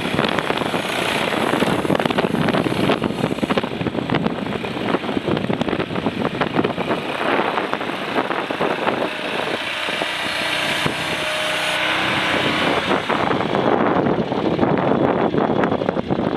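Mini skid steer's engine running, loud and steady with a constant clatter. It eases a little around the middle, where a faint whine shows, and is louder again toward the end.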